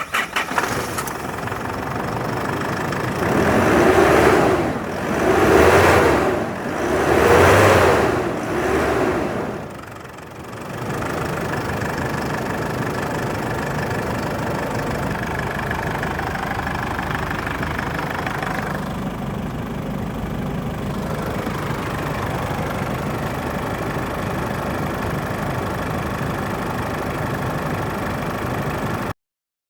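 2011 Holden Colorado engine starting, then revved four times in quick succession and settling to a steady idle. The sound stops abruptly near the end.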